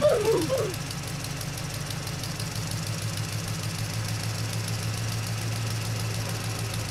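Semi-truck engine running steadily with a low drone.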